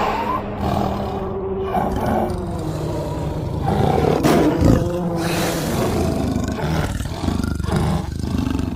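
Designed monster big-cat vocalisation, mixed from big-cat roars and growls: a long low growl that swells into a louder roar about halfway through, then settles back into growling.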